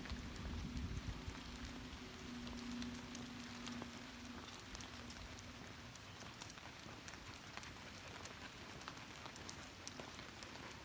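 Rain falling on forest leaves and undergrowth: a soft hiss with scattered drop ticks. A faint steady low hum runs through the first half and fades out about six seconds in.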